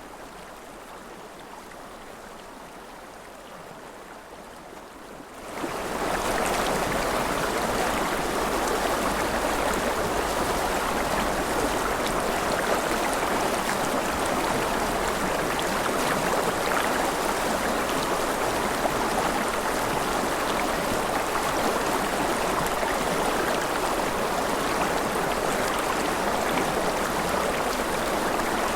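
River water flowing in a steady rush, quieter for about the first five seconds, then rising quickly to a louder, even level.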